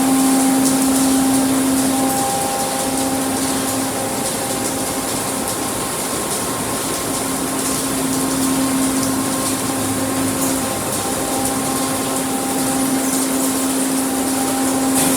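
Automatic car wash machinery running: a steady motor or pump hum that fades and comes back, under a continuous hiss of water spray.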